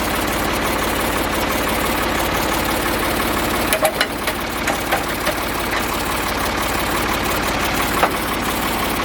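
An engine running steadily at idle, with a few sharp knocks from about four seconds in and one more near the end.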